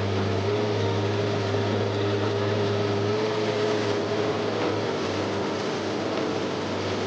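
Komatsu PC130F excavator's diesel engine running steadily under work, a low drone with a steady whine above it.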